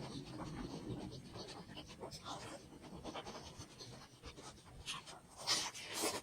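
A person chewing and eating momos (dumplings): a run of small clicks and smacks from the mouth, with a louder cluster near the end.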